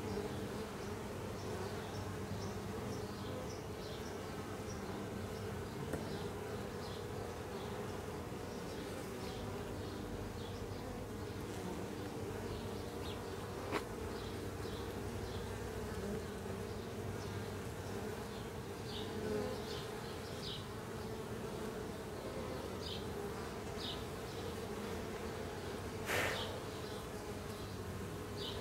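Honey bees from an opened hive box buzzing in a steady hum while the frames are being inspected, with a sharp click about fourteen seconds in and a louder knock near the end.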